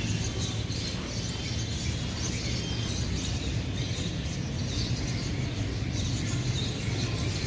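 Small aviary birds chirping faintly over a steady low background rumble.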